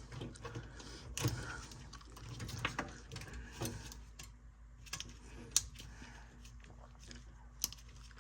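Scattered light clicks and metallic rattles of hands working at a gas furnace's draft inducer assembly, unplugging its wiring to take it out.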